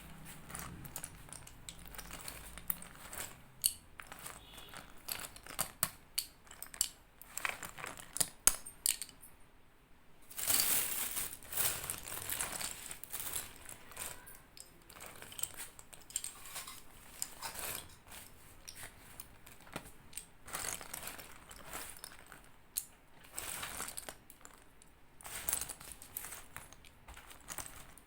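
Slate pencils snapping and crunching close up: a long run of sharp cracks and crunches, with a longer, denser grinding stretch about ten seconds in.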